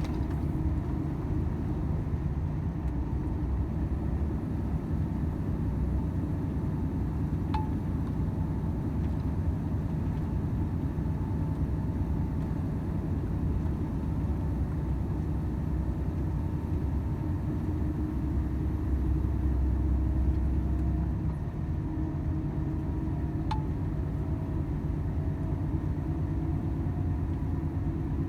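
Volvo FH 500 truck driving along steadily: the 13-litre straight-six diesel drones low and even under road noise, swelling briefly about twenty seconds in.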